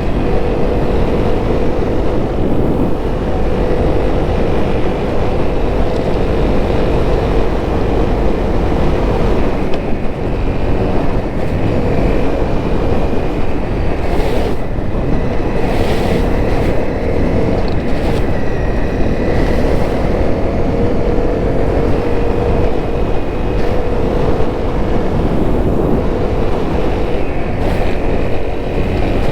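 Honda CRF250L's single-cylinder four-stroke engine running steadily under way, with heavy wind rumble on the microphone and a few short clicks about halfway through.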